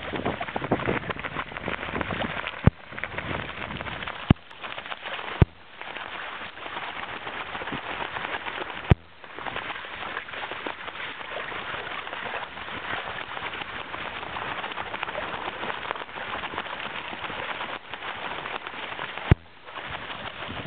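Steady rushing hiss of outdoor wind and water, broken by about five sharp clicks or knocks.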